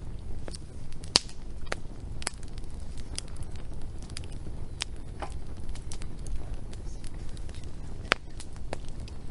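Wood fire crackling, with irregular sharp pops and snaps over a steady low rumble; the loudest pop comes about a second in.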